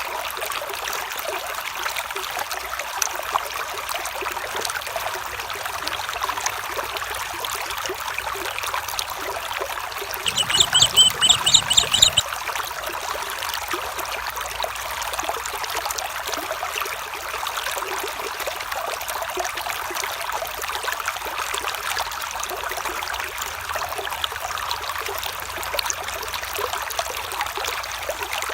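A stream trickling and babbling steadily. About ten seconds in, a short, rapid, high-pitched trill lasts about two seconds.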